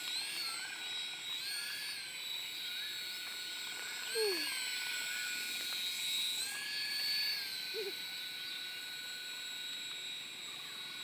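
Toy remote-control helicopter's small electric motor and rotor whining steadily; the pitch rises briefly and falls back several times as it is throttled up and down.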